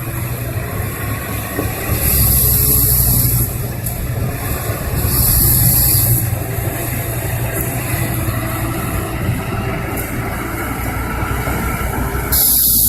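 A heavy vehicle's engine running steadily, with bursts of hiss about two seconds in, about five seconds in and again near the end.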